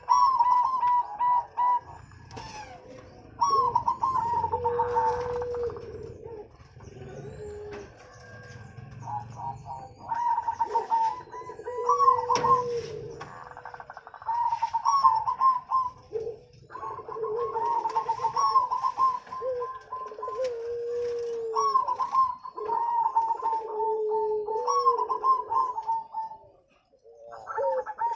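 Zebra doves (perkutut) cooing in repeated song phrases: each phrase a quick run of higher notes over lower, drawn-out coos, with short pauses between phrases.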